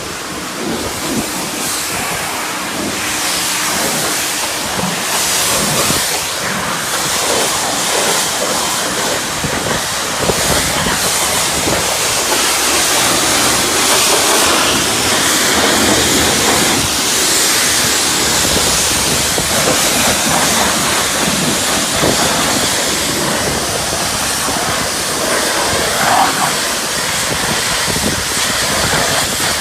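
High-pressure wash wand at a self-service car wash spraying onto a car: a loud, steady hiss of spray.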